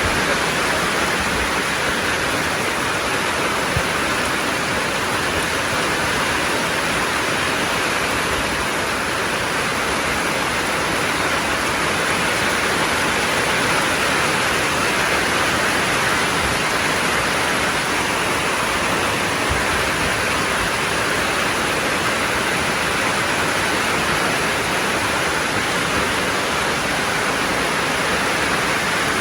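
Heavy rain falling, a steady, even hiss without a break.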